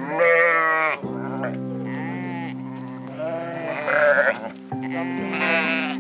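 A flock of sheep bleating several times, the calls wavering in pitch, the loudest at the start and about four seconds in, over background music with sustained notes.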